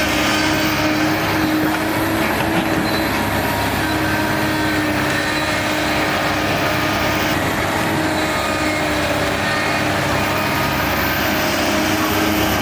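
Diesel engine of heavy earthmoving machinery running steadily, a continuous engine noise with a held tone.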